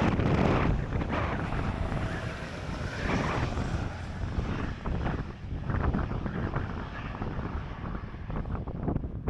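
Wind buffeting the microphone, an uneven, gusty low rumble.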